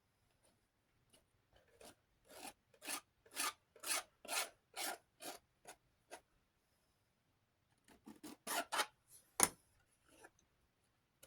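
X-Acto knife scraping excess plastic off a desk fan blade: a run of short scraping strokes, about two a second, then a pause and a quicker cluster of strokes ending in one sharper stroke.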